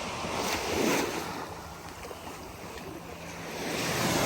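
Small waves breaking and washing up the beach, the surf swelling about a second in and again near the end.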